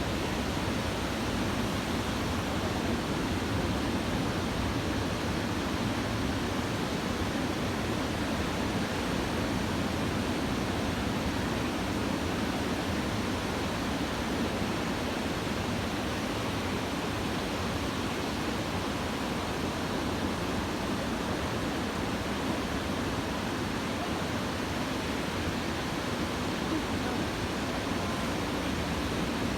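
Steady, unbroken roar of surf from typhoon swell breaking along a beach.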